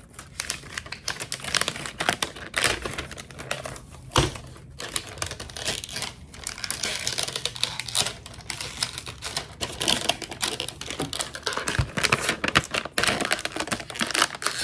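Plastic packaging of a toy being crinkled and pulled open by hand: a rapid, irregular run of crackles and small clicks that grows busier in the second half.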